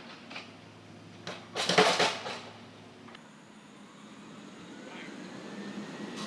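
Pipe-installation work for a fire main: a couple of sharp knocks, then a loud clattering burst lasting about half a second. After that comes a steady machine hum with a faint whine that slowly rises in pitch.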